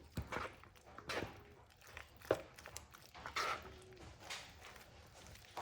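Utensil stirring macaroni and cheese sauce in a pan, with irregular light knocks and scrapes about once or twice a second.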